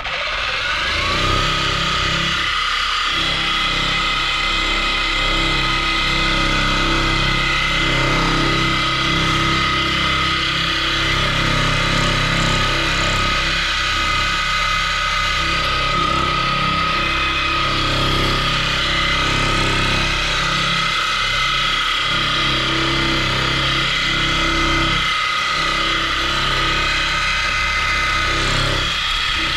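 A motor running steadily without a break, with a steady high whine over a low rumble.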